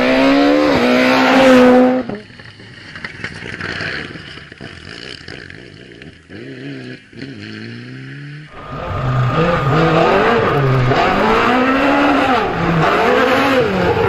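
Rally cars driven flat out on a special stage, engines revving up and dropping back through gear changes. The sound cuts abruptly twice: a loud car to about two seconds in, a quieter, more distant car climbing through its gears, then another loud car from about eight seconds in whose pitch falls away near the end as it passes.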